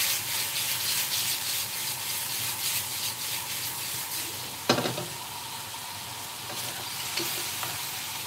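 Diced turkey sizzling in a hot wok, stirred with a wooden spatula in quick scraping strokes for the first few seconds. A single sharp knock comes just under five seconds in, then a steady sizzle.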